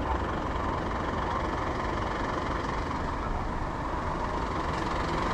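A fire engine's diesel engine idling steadily.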